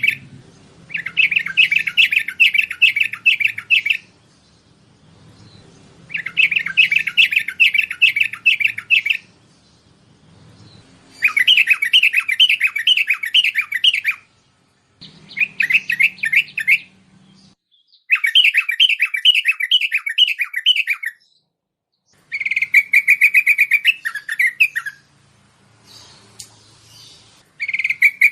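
Bulbul (merbah) song used as a lure call: about seven bursts of rapid notes, each two to three seconds long, with short pauses between them. Some bursts are strings of quick downward-sliding notes.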